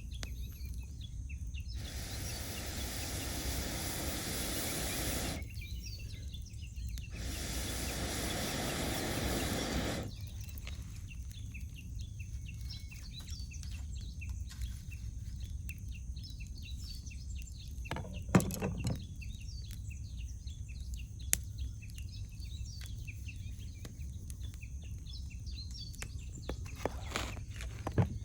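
Wood campfire crackling, with fine crackle and a few sharp pops, one loud one a little past the middle. Birds call around it. Early on there are two rushes of airy noise, each about three seconds long, with a short gap between them.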